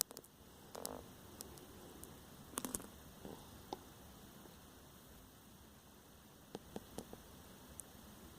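Quiet room tone, a faint steady hiss and hum, with scattered small clicks and taps: one about a second in, a short cluster a little later, and a few more near the end.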